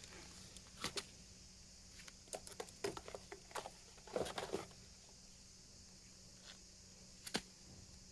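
Scattered light clicks and taps, as of small parts or tools being handled: a pair about a second in, a busy cluster in the middle, and one more near the end, over a faint steady hum.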